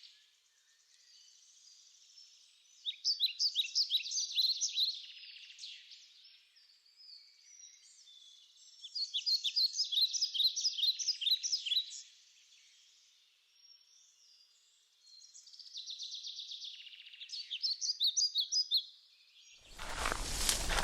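A songbird singing: three phrases of quick, high, repeated notes a few seconds apart, with softer trills between them. Just before the end, a louder rushing noise sets in.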